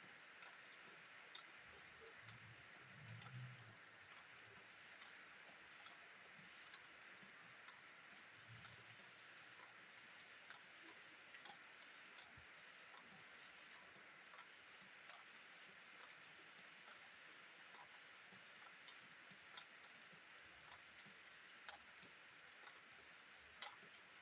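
Faint, steady rain hiss with individual drops ticking irregularly, about one a second. Soft low rumbles come about three seconds in and again near nine seconds.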